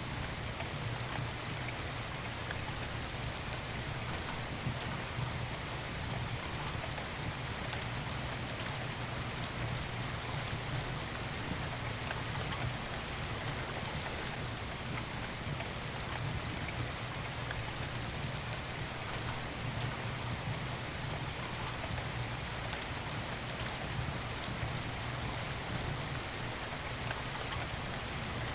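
Steady rain falling, mixed with a few sharp crackles from a wood fire in a fireplace.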